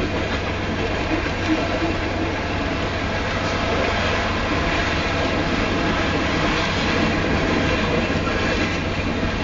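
Coal hopper cars of a long freight train rolling past: a steady, even noise of steel wheels on the rails.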